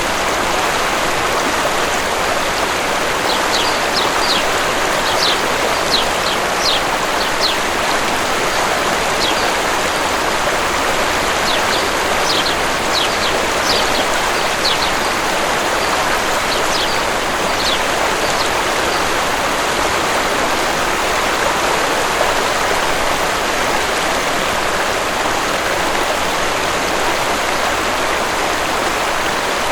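Waterfall rushing steadily, with small birds chirping in quick short notes for several seconds in a row during the first two-thirds.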